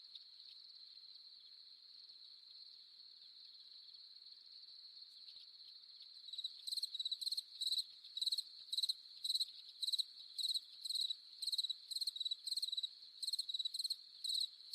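Crickets trilling steadily in a high, even chorus. About six and a half seconds in, a closer cricket starts chirping loudly at the same pitch, about two chirps a second.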